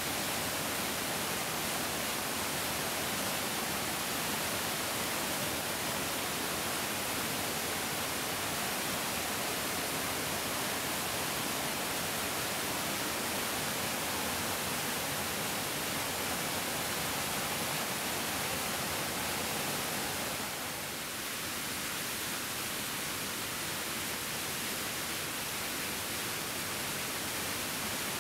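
A big mountain stream flowing, its water making a steady, full rushing hiss; the sound eases slightly for a moment about three-quarters of the way through.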